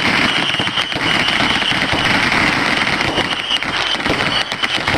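Many fireworks and firecrackers going off at once in a dense, unbroken crackle of rapid pops.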